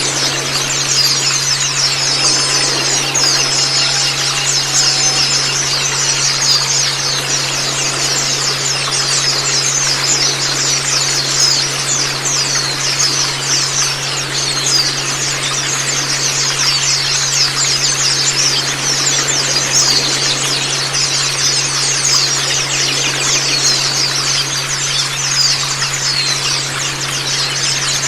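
A flock of white-eyes (Zosterops, pleci) chirping and twittering continuously, with many quick high down-slurred notes overlapping. Underneath runs a steady hiss and a low hum.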